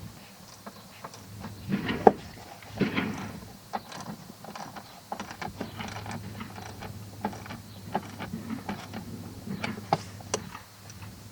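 Irregular clicks, knocks and rattles of hand tools and plastic trim pieces being worked and fastened, a few louder knocks about two and three seconds in, over a steady low hum.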